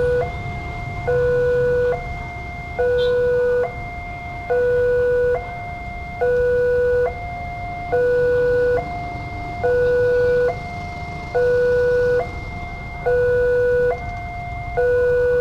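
Railway level crossing warning alarm: an electronic two-tone signal switching back and forth between a lower and a higher note, each held for just under a second, over a low rumble. It signals that a train is approaching and the crossing gates are closing.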